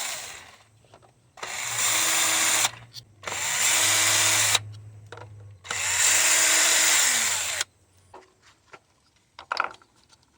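Cordless power tool run in three short bursts, about a second to a second and a half each, spinning out the 10mm bolts that hold the ignition coil packs, the motor winding down at the end of each burst. A few light clicks follow near the end.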